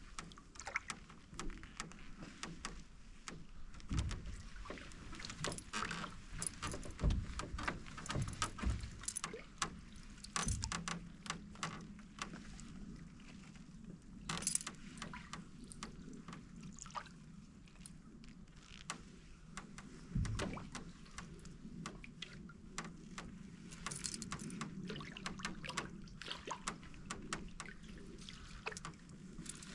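Canoe being paddled: the paddle knocks and splashes, the hull gives scattered clicks and creaks, and there are a few low thumps against the boat. A faint steady low hum runs underneath.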